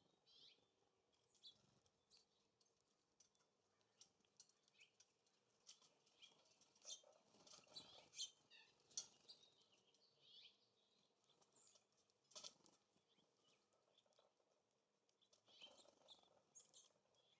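Faint chirps and call notes of small songbirds, with scattered light ticks and taps, busiest about halfway through.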